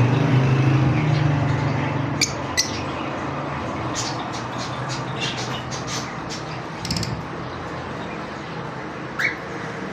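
Caged birds in an aviary giving short sharp squawks and chirps at scattered moments, with one short rising chirp near the end, over a steady background noise.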